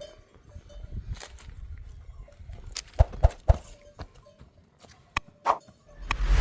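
Livestock moving about, with irregular hoof and foot knocks and a faint bell ringing on and off. A few sharp knocks come in the middle, and a loud rush of noise builds at the very end.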